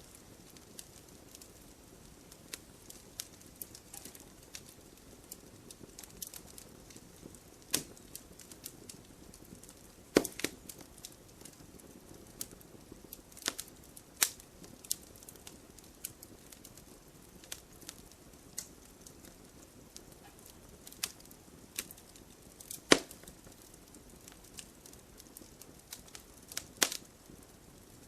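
Wood fire crackling and popping: irregular sharp snaps over a soft steady hiss, with a few louder pops, the loudest about two thirds of the way through.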